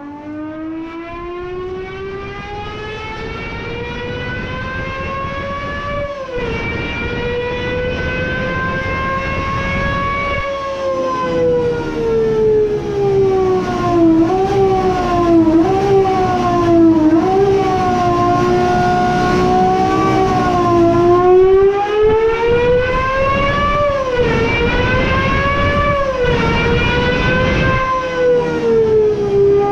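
Gordon Murray T.50's naturally aspirated 3.9-litre Cosworth V12 pulling hard, its high wail rising steadily in pitch and dropping sharply at each upshift. Through the middle it gives a quick series of short throttle blips on downshifts, then climbs and drops again through more gear changes.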